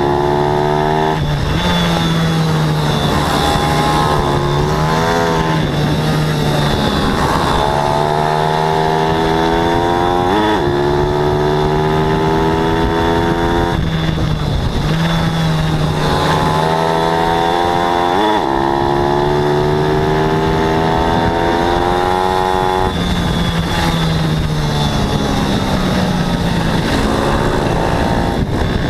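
Small single-cylinder four-stroke pit bike engines at race pace. The pitch climbs and drops again at each gear change, several times over.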